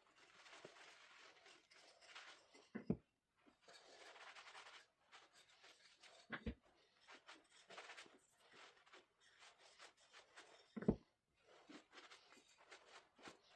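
Microfiber towel rubbing and wiping over sanded pallet-wood coasters in soft scratchy spells, with three sharp knocks about four seconds apart.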